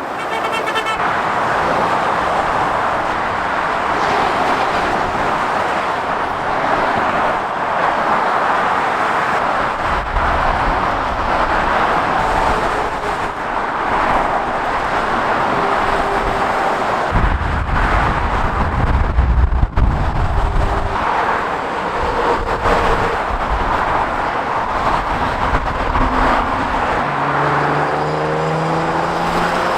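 Continuous motorway traffic: a steady roar of tyres with heavy lorries passing, giving deep rumbles about a third of the way in and again just past halfway. Near the end a vehicle's engine note rises as it pulls away.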